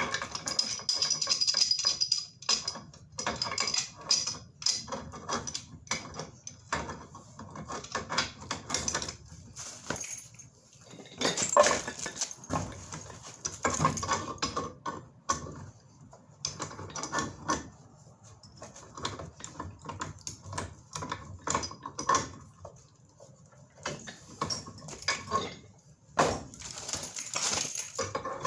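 Tools and black-iron gas pipe fittings clinking and knocking as they are handled, in irregular runs of sharp clicks and knocks.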